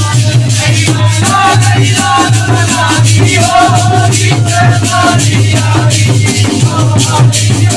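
Instrumental break in a Holi folk song: a wavering melody line over jingling percussion shaken or struck in a quick, steady beat, with a constant low hum underneath.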